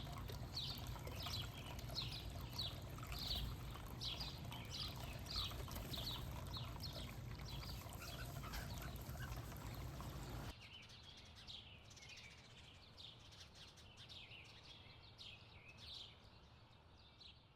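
Backyard songbirds chirping: a quick series of short, downward-sliding high notes over a low steady background rumble. The rumble cuts off abruptly about ten seconds in, and the chirps carry on more faintly.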